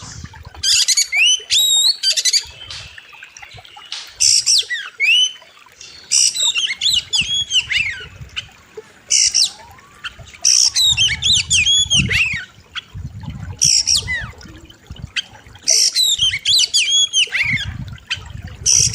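Oriental magpie-robin (kacer) singing in loud, sharp phrases of rapid rising and falling whistled notes, a new burst every second or two. A low rumble comes in behind the song in places.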